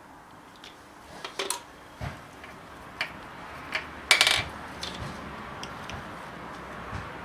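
Metal tools and engine parts clinking and knocking against each other, about seven irregular strikes, the loudest a little after four seconds in.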